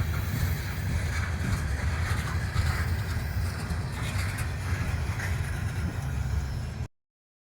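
Coal train rolling past: a steady low rumble of rail cars, cutting off suddenly near the end.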